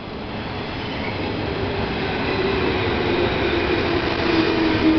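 JR 201 series electric train pulling into a station: wheel-and-rail running noise that grows steadily louder as the cars come alongside. A hum under it slowly drops in pitch as the train slows to stop.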